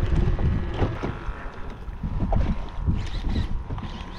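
Choppy water slapping and splashing against a small fishing boat's hull in rough seas, with wind buffeting the microphone in an uneven low rumble.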